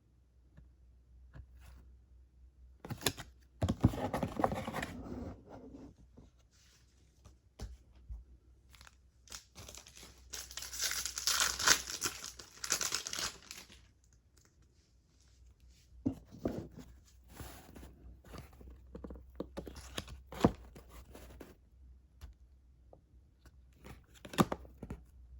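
A foil trading-card pack torn open and crinkled, the longest and loudest tearing about ten to fourteen seconds in, followed by scattered light clicks of cards being handled.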